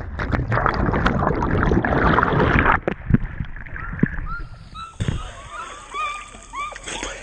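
A loud rush of splashing and churning water for about three seconds as a jumper hits the water, then it falls quieter and short repeated chirps come in near the end.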